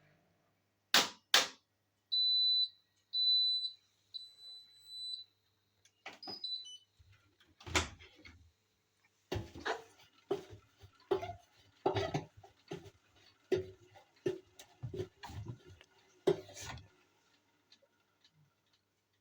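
Hotpoint washing machine finishing its cycle: two sharp clicks, then a string of high electronic beeps, two longer and then several shorter, signalling the end of the programme. An irregular run of knocks and clunks follows.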